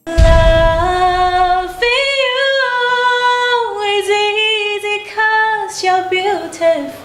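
Solo female voice singing without words, unaccompanied, in long held notes that slide between pitches, with a brief low rumble as it starts.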